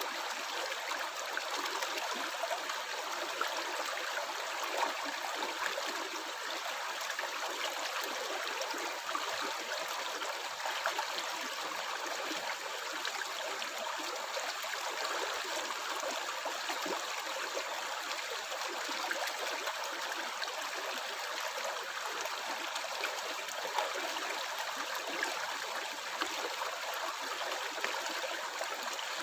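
Stream water flowing and gurgling steadily, with fine trickling and bubbling detail over an even rush.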